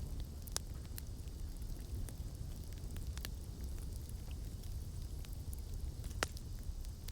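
Campfire burning: a low steady rumble of flames with scattered sharp crackles and pops of burning wood, the loudest pop about six seconds in.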